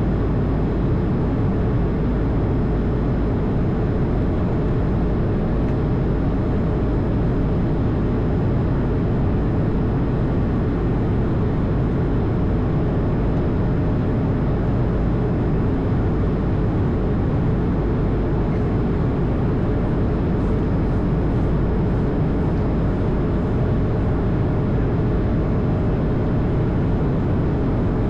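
Airbus A220 cockpit noise: the aircraft's engines and airflow making a steady low rumble that does not change, with a faint constant whine above it.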